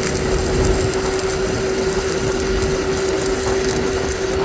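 Machinery running with a steady hum and a harsh, noisy rasping sound over it.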